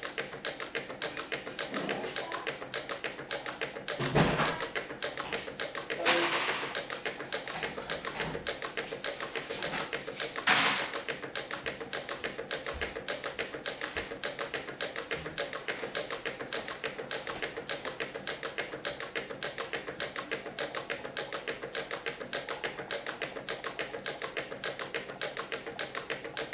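Meccano-built Stirling engine running steadily, its metal parts and gears clattering in an even rhythm of about four clicks a second. Three louder brief noises break in about 4, 6 and 10 seconds in.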